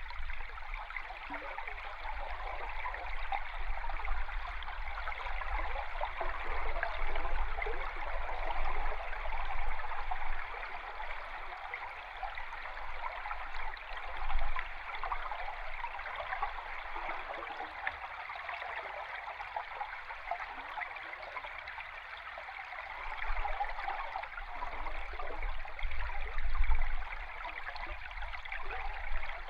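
River stream recorded underwater: a steady, dense rushing and bubbling, with deep rumbling swells now and then, strongest about halfway through and again near the end.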